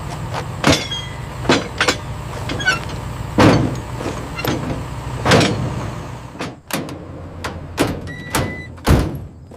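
A vehicle's engine running with a steady low hum, with a series of sharp knocks and door-like clunks. The engine hum stops about six seconds in, and one last heavy clunk comes near the end.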